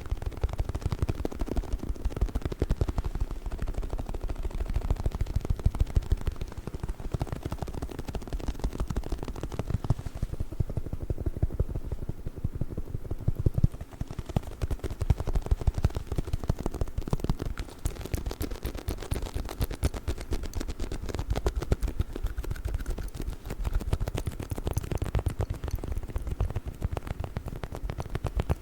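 A rubber chicken dog toy handled fast and close to the microphone, giving a dense run of quick taps and clicks with no squeak.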